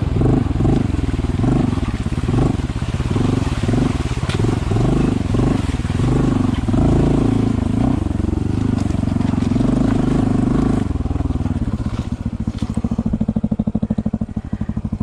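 Honda CT125's air-cooled single-cylinder engine running with uneven throttle, the sound swelling and dropping. About eleven seconds in it settles into a steadier, even low putter.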